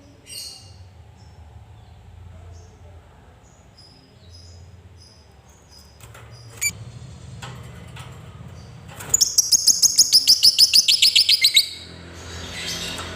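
Lovebird calls: soft scattered chirps and a few sharp clicks, then the long, rapid chattering 'ngekek' call. This is a train of sharp high notes, about seven a second, lasting a little over two seconds. A harsher squawk follows near the end.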